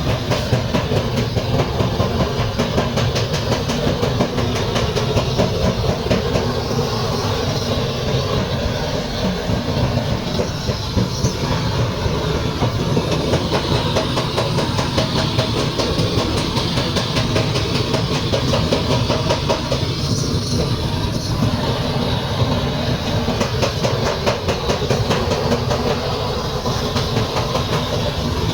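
A machine running steadily with a fast, even clatter.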